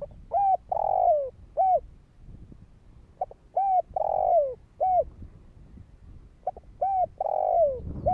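Spotted dove cooing: three phrases about three seconds apart, each of two short coos, a longer coo that falls in pitch, and a final short coo.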